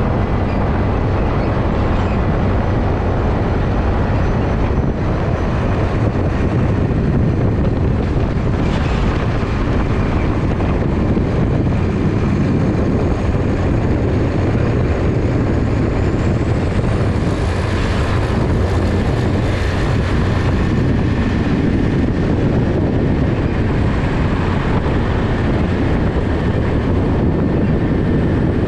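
Heavy truck traffic: diesel lorry engines and tyres making a steady, unbroken low rumble.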